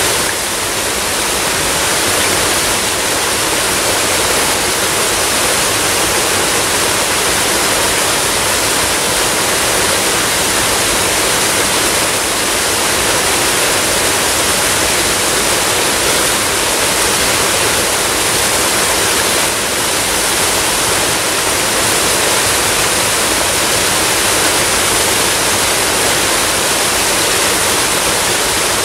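Waterfall: a steady, unbroken rush of falling water, mostly in the middle and upper range, with little deep rumble.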